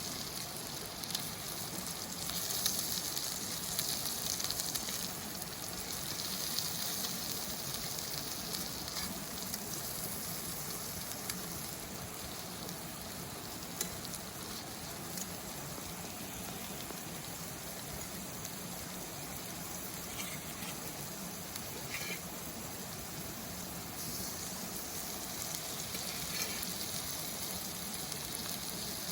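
Food sizzling steadily in a frying pan over a campfire while garlic shrimp pasta is cooked, with a few light clicks in the second half.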